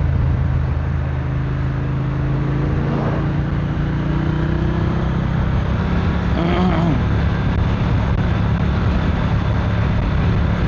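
Triumph Speed Twin 1200's parallel-twin engine running steadily while the motorcycle is ridden, with wind rushing past. Its pitch rises a little in the first half, and there is a brief pitched sound about two thirds of the way through.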